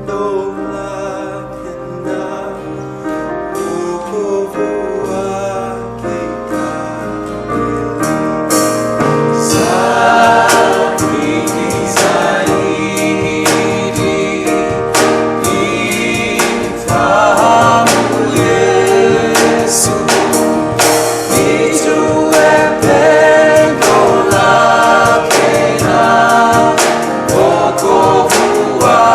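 Live gospel worship music: a choir singing with a band. It opens softly on held chords, then about eight seconds in a steady beat of drum hits comes in and the singing grows louder.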